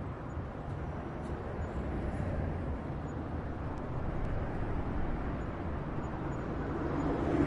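Highway traffic: a steady rush of tyre and engine noise from passing vehicles with a low rumble, growing louder near the end as a nearer vehicle approaches.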